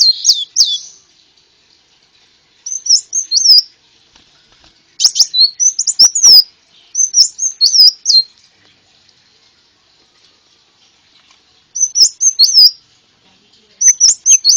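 Konin sunbird singing in short bursts of rapid, high, sharp twittering notes, about six phrases separated by brief pauses, the last phrase starting near the end as a fast run of repeated notes.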